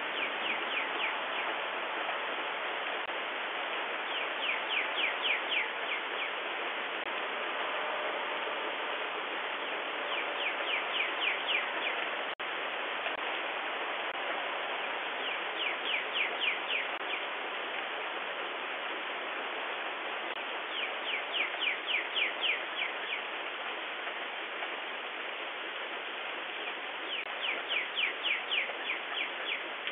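Steady rain falling, picked up through a doorbell camera's microphone, with a bird repeating a short, fast series of high notes about every five or six seconds.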